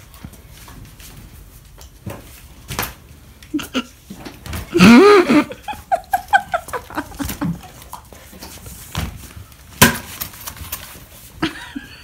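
Scattered knocks and footsteps on a tile floor, with one loud, short cry rising and falling about five seconds in.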